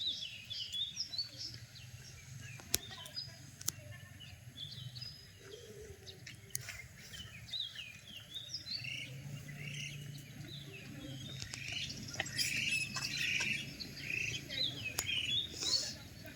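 Several birds chirping and calling over one another in quick, short notes, with a couple of sharp clicks about three seconds in.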